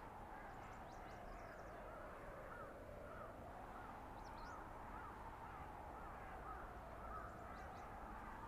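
Blizzard wind in a winter forest: a steady hiss with a whistling howl that slowly rises and falls. From about two seconds in to about seven seconds, a faint string of short repeated calls sounds over it, about two a second.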